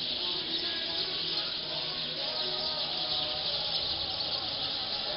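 A large flock of black birds gathering to roost in a tree, many calling at once in a dense, continuous, high-pitched chatter.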